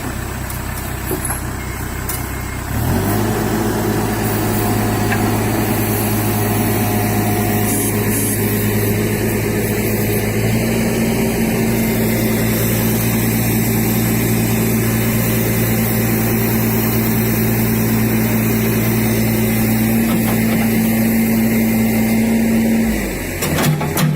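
Truck engine running at steady high revs. The revs step up about three seconds in and again about ten seconds in, hold, then drop back near the end.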